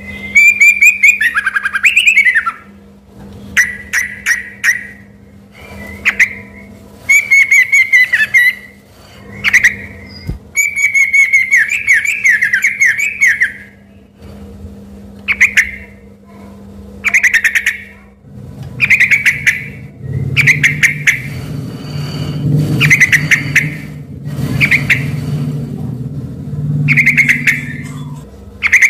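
Yellow-vented bulbul (trucuk) singing loudly, in phrases like a white-rumped shama's song. Short loud phrases repeat every second or two with quick rattling notes, and a few longer warbling runs come in the first half.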